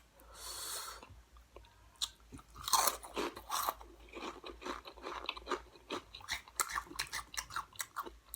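Crunchy Flamin' Hot Chipotle Ranch Cheetos being bitten and chewed close to the microphone: a rapid, uneven run of crisp crunches from about two seconds in, after a short hiss near the start.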